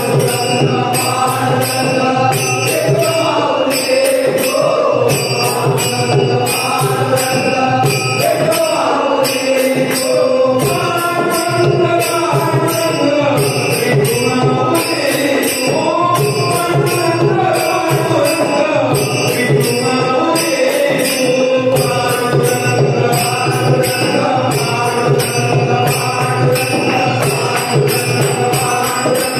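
A Marathi devotional abhang sung by a male singer over steady held accompaniment tones. A small jingling percussion instrument, such as hand cymbals, keeps an even beat.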